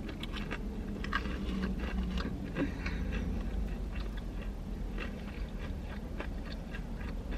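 Close-up chewing of a breaded fried chicken tender: irregular soft crunches and wet mouth clicks.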